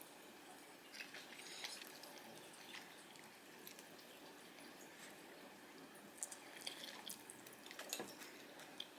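Faint, scattered light clicks and taps over quiet room tone, with a small cluster of them in the last few seconds.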